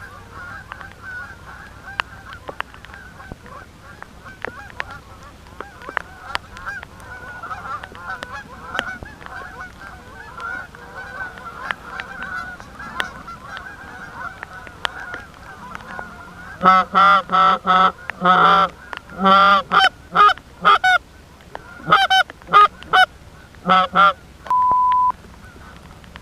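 A flock of Canada geese honking over the decoys: a steady, overlapping chorus of many calls, then a run of loud, close, separate honks and clucks from about two-thirds of the way in. A short steady beep sounds near the end.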